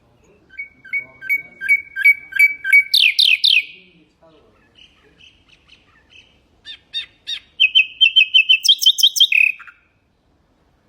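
Nightingale singing two phrases, each a quick run of repeated clear notes that speeds up and ends in a few louder, higher notes, with a short pause of faint notes between the phrases.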